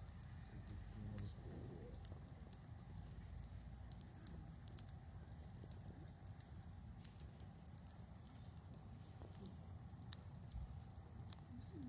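Wood campfire crackling quietly, with irregular sharp pops and ticks over a low steady rumble.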